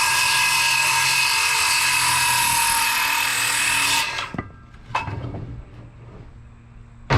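Power saw cutting through a lumber board with a steady high whine, stopping suddenly about four seconds in. A few light wooden knocks and clatter follow.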